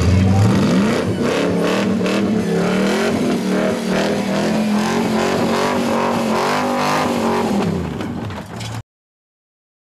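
Holden Commodore engine revving hard during a burnout, held at high revs with the pitch wavering up and down. Near the end the revs drop away, and the sound cuts off suddenly.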